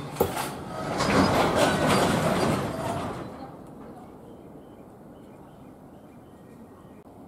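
Container freight train's wagons rolling slowly past with wheel clatter and clicks, the noise dying away about three seconds in as the train draws to a stop.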